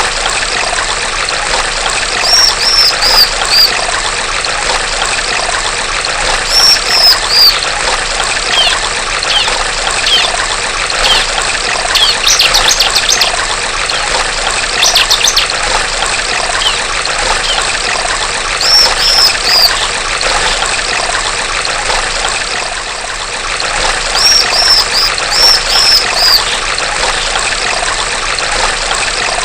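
Female bar-winged prinia (ciblek) calling in short runs of high, downcurved chirps, with a couple of fast trills midway, over steadily trickling stream water.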